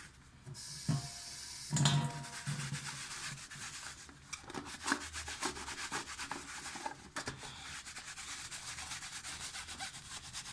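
Rapid scrubbing strokes of a scrubber against a dishwasher filter. A brief hiss and a knock come in the first two seconds.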